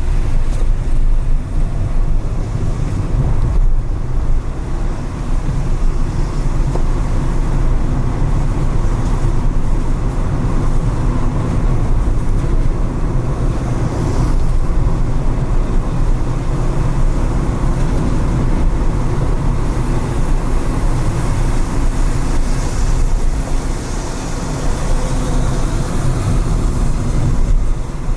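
Car driving through city streets after rain: a steady low road and engine rumble with tyre noise on wet pavement. The higher hiss swells about halfway through and again near the end.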